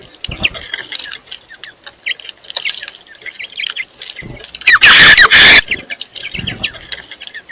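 Birds chirping busily with many short, high calls, and a loud burst of harsh squawking, a quick series of falling notes, about five seconds in.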